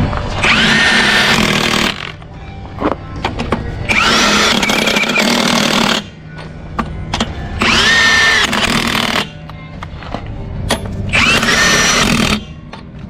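Impact wrench run in four bursts of about one and a half to two seconds each, tightening truck wheel lug nuts. Each burst rises in pitch as it spins up and then holds a steady whine, over a steady low hum.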